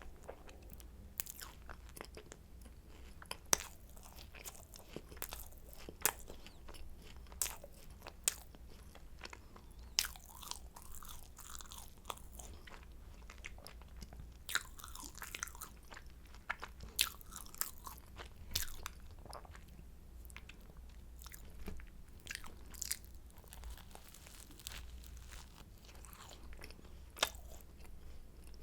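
Flaky croissant pastry being bitten and chewed close to the microphone: irregular crisp crackles and crunches of the layered crust, with softer chewing between them.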